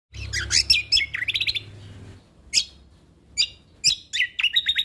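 Kecial kombok (cucak kombo) songbird singing in quick, varied chirps and trills: a busy phrase in the first second and a half, a few single notes, then a fast repeated trill near the end. A low hum runs under the first two seconds.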